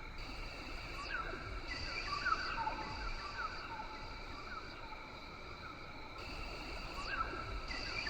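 Rainforest ambience: a steady, many-layered drone of insects with short, quickly repeated chirping calls coming in clusters, about a second in and again near the end.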